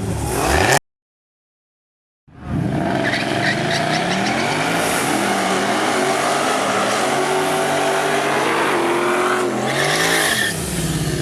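After a second and a half of dead silence, a drag-racing car's engine comes in loud, revving hard with its pitch rising and falling, over the hiss and squeal of spinning tyres. It eases off near the end.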